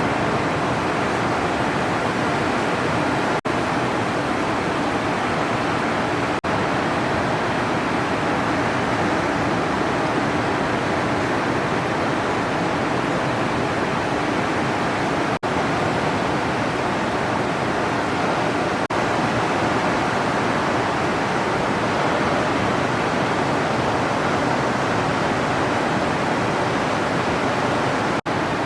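Steady rushing roar of ocean surf breaking on the reef, broken by a few very brief dropouts.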